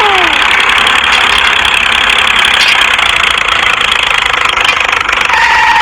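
Mini tractor running steadily with a loud, even noise. A short steady tone joins in near the end.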